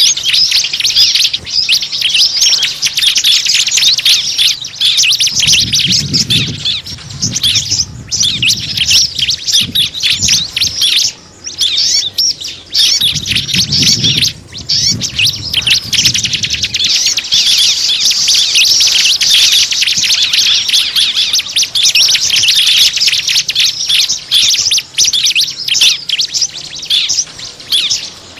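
Small birds chirping rapidly and without pause, a dense mass of high, sharp calls used as a lure call to draw small birds in. A low rumble runs under it twice, for a few seconds each time.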